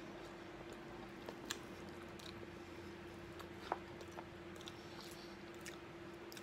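A person chewing a mouthful of soft chickpeas, with a few faint clicks of a metal fork against the bowl, over a faint steady hum.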